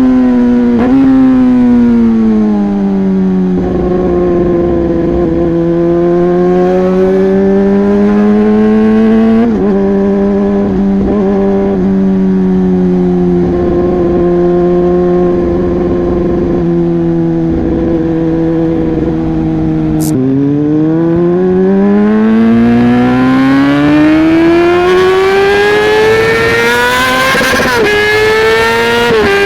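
Yamaha R15 V3 motorcycle's 155 cc single-cylinder engine running through a modified aftermarket exhaust. The engine pitch holds fairly steady for most of the time, then drops sharply with a click about two-thirds of the way in and climbs steadily before falling slightly near the end, as it does when the bike is ridden through a gear change.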